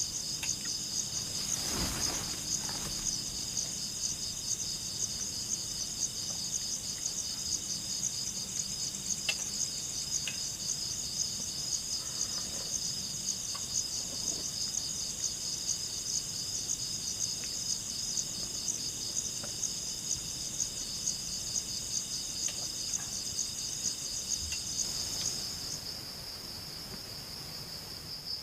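Night insect chorus of crickets: a steady, high, finely pulsing trill in two pitches. The higher one stops near the end. A brief noise sounds about two seconds in, and a few faint ticks are scattered through.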